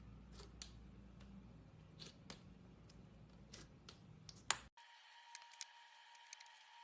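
Faint, scattered sticky clicks and pops of slime being squeezed and stretched by hand, the loudest a little past four seconds in. Shortly after, the sound cuts abruptly to a different recording with a faint steady hum behind more small clicks.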